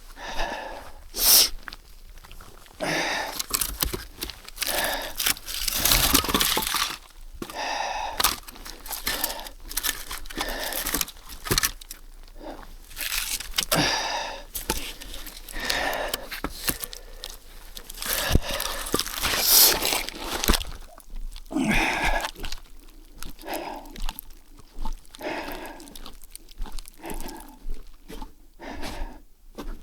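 Irregular crunching in deep snow, in uneven bursts a second or two long.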